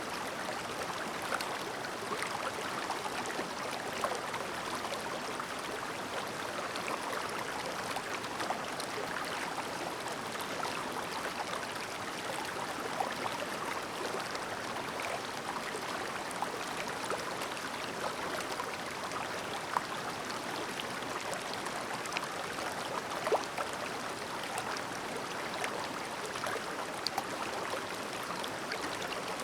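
Clear shallow river babbling steadily, with many small splashes and plinks scattered through the rushing water.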